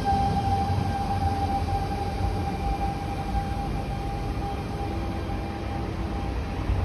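C651 Singapore MRT train arriving and slowing, its traction inverter giving a steady high whine that fades out near the end, over a low rumble of the wheels on the track.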